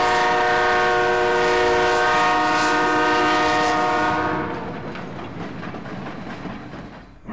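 A passing train sounds a long horn blast of several tones held together. The horn stops about four and a half seconds in, and the train's running noise and wheel clatter carry on more quietly.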